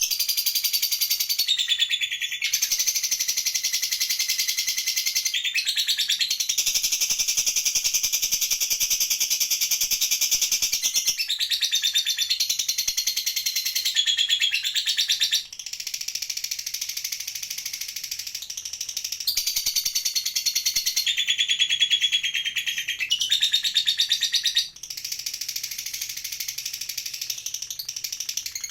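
Lovebird ngekek: long, unbroken runs of rapid, high-pitched chattering trill, each lasting several seconds, with short breaks between them, from a bird that is in molt.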